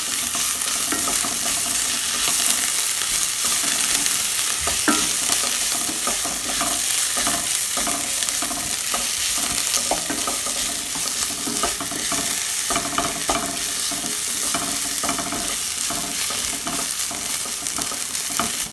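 Sliced onions with ginger-garlic paste and spice powders sizzling in hot oil in a metal pan, with a spoon stirring and scraping through the mixture in repeated strokes.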